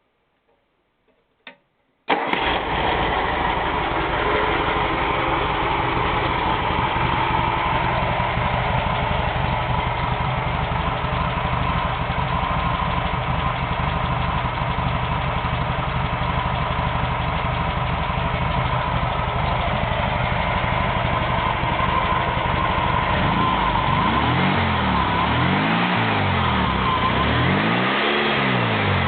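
VW 1600cc air-cooled flat-four engine starting about two seconds in, catching at once, then running steadily at idle. Its note rises and falls twice near the end.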